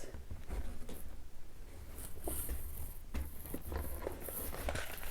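Soft rustling and scattered light taps of a tea box's paper and packaging being handled, over a low steady hum.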